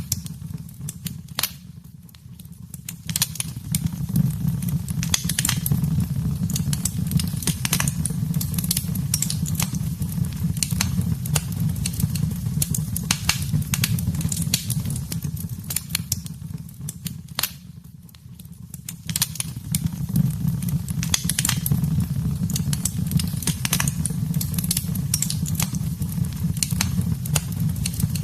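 Wood fire in a fireplace crackling and popping over a steady low rumble of flames. The fire sound dips briefly twice, about two seconds in and again about two-thirds of the way through.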